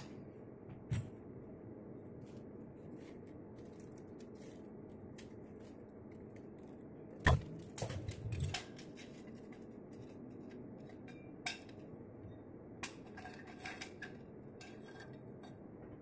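Scattered light metallic clinks and knocks of metal pieces being handled over a steady low hum, with the loudest cluster about halfway through.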